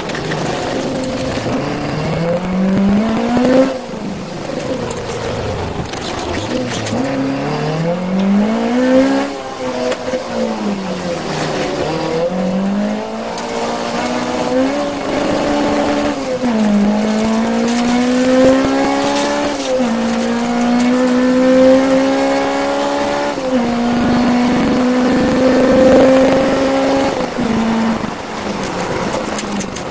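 Peugeot 205 1.6 Mi16 rally car's 16-valve four-cylinder engine driven hard on a rally stage. Its pitch rises and drops repeatedly in the first half, then climbs in longer pulls with brief dips at gear changes.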